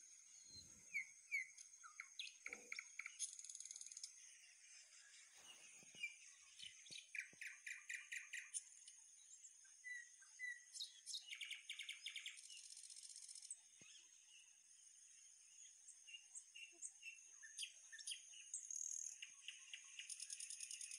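Several birds chirping and giving rapid trills, faint and scattered, over a continuous high-pitched whine.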